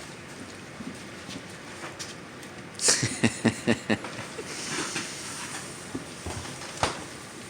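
A dog eating bacon close by: a quick run of about six sharp clacks and crunches about three seconds in, a short hiss, and one more click near the end.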